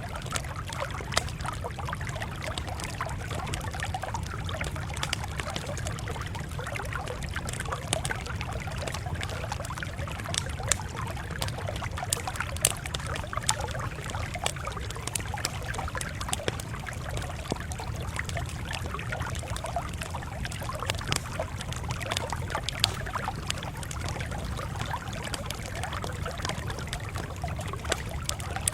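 Campfire crackling and popping, with irregular sharp snaps over a steady low rumble.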